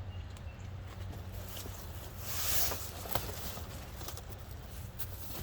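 Cardboard packaging and a wooden console being handled: scattered light clicks and knocks, with a short scraping rush about two and a half seconds in, over a steady low hum.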